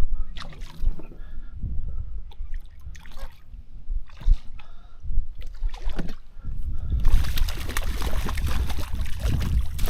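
Water splashing and sloshing as a hooked trout is played close in at the surface, in short scattered splashes that become louder and more continuous about seven seconds in.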